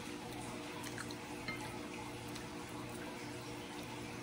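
Wet mouth sounds of someone chewing and sucking on adobo chicken feet: a few small sticky clicks over a steady low hum.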